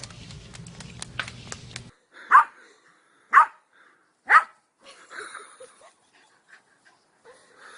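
A dog barks three times, loud and short, about a second apart.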